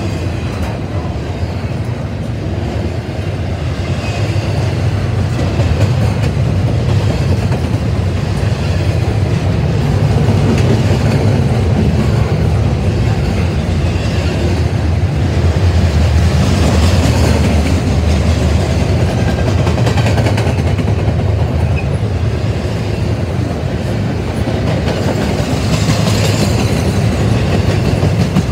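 Double-stack intermodal freight train's container well cars rolling past, a steady rumble of steel wheels on the rails with clickety-clack over the rail joints. It grows a little louder a few seconds in.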